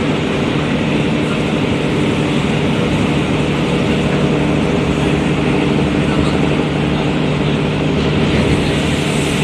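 Large diesel engine running steadily, a loud, even drone with a low hum that holds without change.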